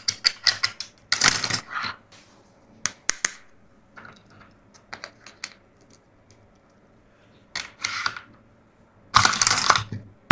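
Plastic toys being handled: a run of sharp clicks and rattles with a few short scraping or rustling bursts, the loudest near the end, and quiet gaps between them.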